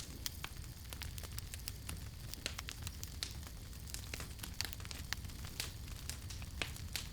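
Campfire burning with irregular sharp crackles and pops from the burning wood, several a second, over a low steady rumble of the flames.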